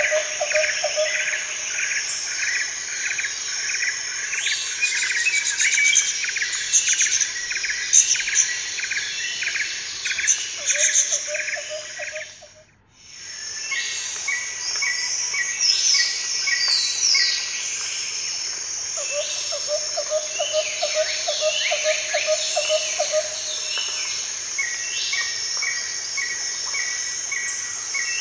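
A nature soundscape of many birds chirping and calling over steady insect trilling, with a lower pulsing trill that comes and goes. It dips briefly to near silence about halfway through, then comes back.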